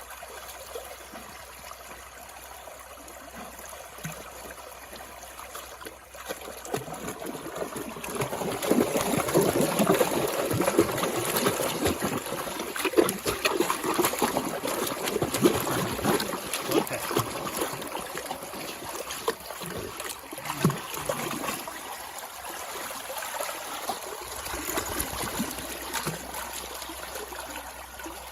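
Running water, like a stream or river, growing louder for a stretch in the middle before easing off.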